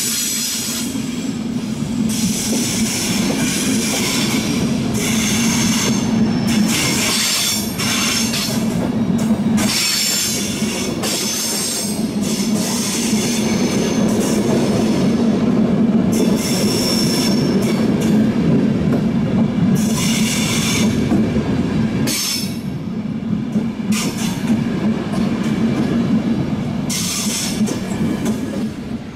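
Night-train coaches rolling slowly past over station track. There is a steady low rumble from the wheels, with repeated high-pitched wheel squeal coming and going every couple of seconds.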